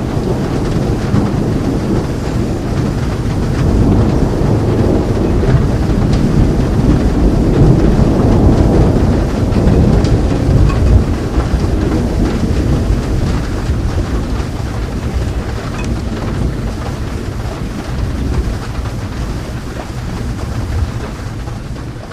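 Long rolling thunder rumbling over steady rain, building to its loudest about halfway through and slowly dying away.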